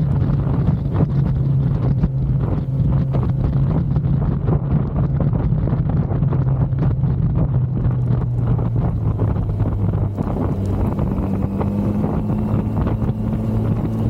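Kawasaki Z900's inline-four engine running under way at steady revs, its pitch easing slightly and then climbing gradually from about ten seconds in, with wind buffeting the microphone.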